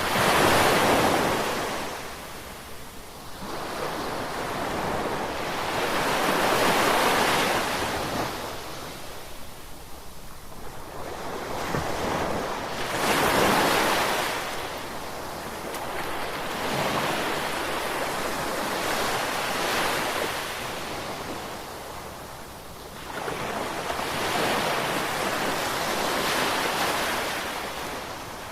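Ocean waves washing onto the shore, an even rushing hiss that swells and fades about every six seconds, five surges in all.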